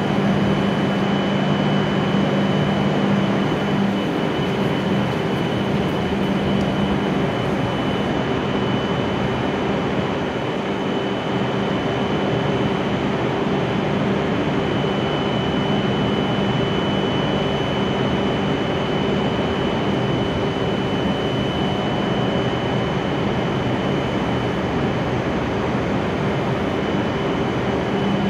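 W7 series Shinkansen train standing at the platform with its doors open, its on-board equipment running: a steady noise with a thin high whine over it and a low hum, the hum stronger for the first few seconds.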